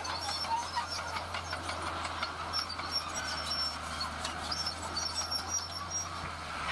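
Heavy tracked construction machine working: a steady low diesel engine hum under rapid metallic clanking and brief high squeaks from its steel crawler tracks.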